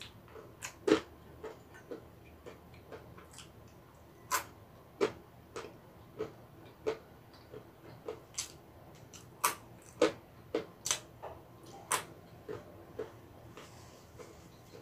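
Almonds crunched between the teeth close to the microphone: irregular sharp cracks, about one or two a second, the loudest about a second in.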